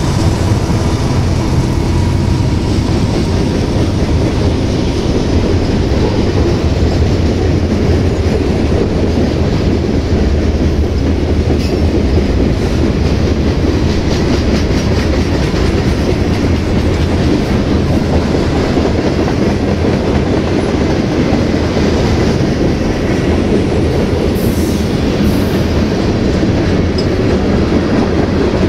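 Freight train rolling past close by, the trailing BNSF diesel locomotive going by at the start and then covered hoppers and tank cars. A loud, steady rumble of wheels on the rails, with a run of quick clicks about halfway through.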